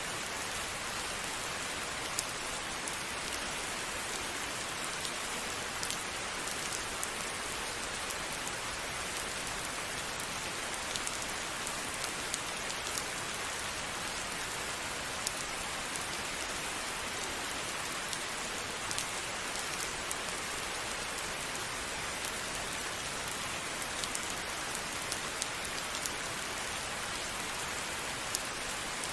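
Steady rain falling, an even hiss with many small drops ticking sharply on a hard surface.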